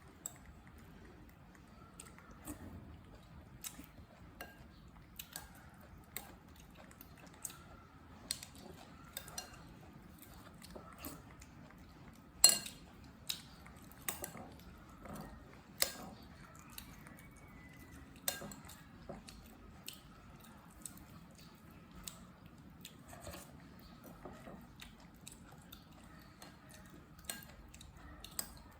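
A spoon clinking and scraping in a bowl of porridge in scattered, irregular sharp clicks, with soft eating and chewing sounds between them; the loudest clinks come about twelve and sixteen seconds in.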